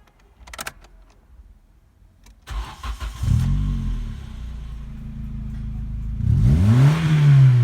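Nissan QG18DE 1.8-litre four-cylinder petrol engine cranked over and starting about two and a half seconds in, then idling steadily. Near the end it is revved once, the pitch rising quickly and falling back. A short click comes before the cranking.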